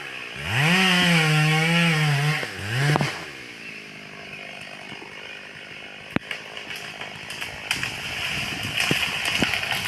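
Stihl 382 two-stroke chainsaw revved to full throttle and held there for about two seconds, blipped once more, then dropped to idle. A sharp crack comes about six seconds in, followed by a growing run of cracks and crackling near the end.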